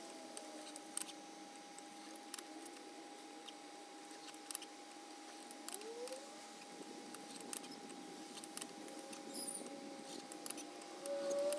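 Light clicks and clinks of metal tools or parts being handled, a dozen or so scattered through, over a faint steady tone, with a few short rising squeaks.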